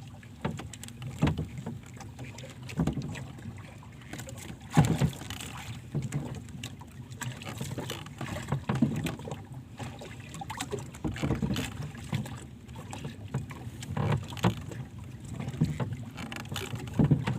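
Water lapping and sloshing with irregular low knocks and thumps, and some wind on the microphone.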